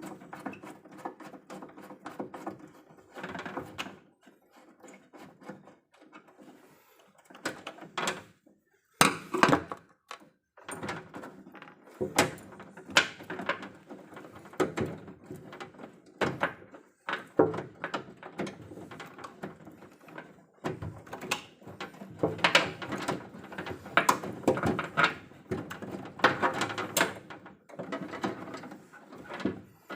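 Irregular knocks, clicks and clatter of hand tools and cables being handled at an electrical distribution panel. There is a short lull a few seconds in, and the loudest knocks come just after it.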